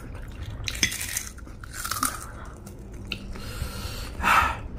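Close-up chewing and crunching of spicy chatpate, the Nepali puffed-rice snack mix, in irregular mouthfuls with a louder crunch near the end.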